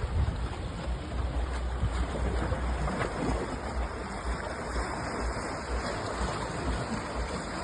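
Sea waves washing steadily, with wind buffeting the microphone in a fluttering low rumble.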